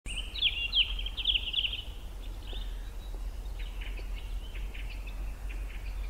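Songbirds chirping: a quick run of chirps in the first two seconds, then scattered calls, over a steady low rumble.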